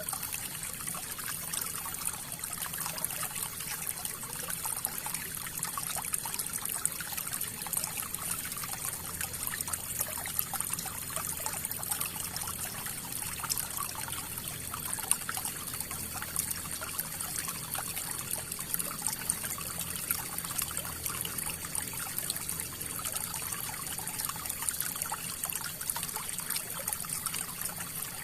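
River water flowing over rocks, a steady rush full of small splashes and gurgles.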